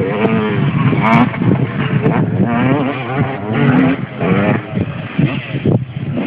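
Several motocross bike engines revving up and down together, their pitches wavering and overlapping.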